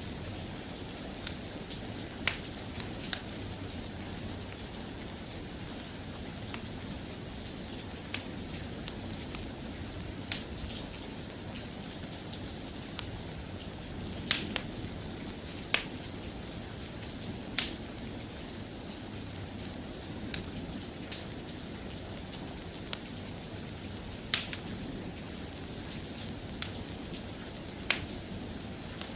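Soft, steady rain, with sharp ticks scattered irregularly every second or few over the steady hiss.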